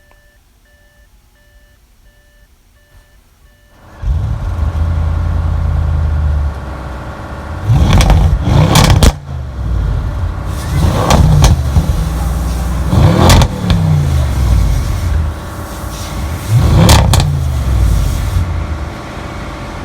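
2016 Audi RS7's turbocharged 4.0-litre V8 running loudly through its exhaust at idle, starting about four seconds in after a quiet stretch. It is revved several times, each rev a quick rise and fall in pitch.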